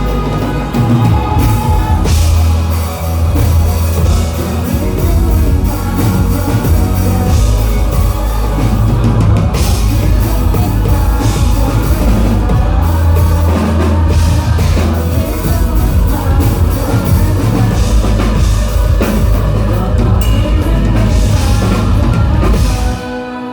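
Live rock band playing loud, with drum kit and singing; the full band drops away sharply just before the end.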